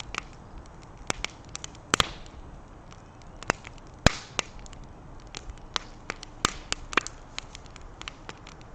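Campfire of sap-filled wood crackling, with sharp, irregular pops, a few of them loud, over a faint hiss.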